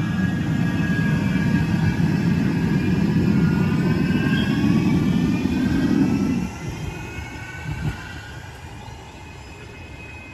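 A Manchester Metrolink tram passing close by: a heavy rumble of wheels on rail, with a high whine from the traction motors slowly shifting in pitch. The rumble falls away sharply about six and a half seconds in as the tram moves off.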